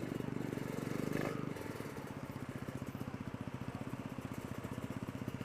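Motorcycle engine running while riding, with a steady, rapid pulsing; the throttle eases about a second and a half in and the engine settles a little quieter.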